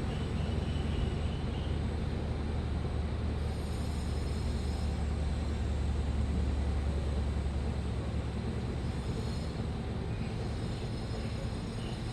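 Washing machine on a fast spin: a steady low drum rumble with a deep hum that strengthens toward the middle and eases slightly near the end.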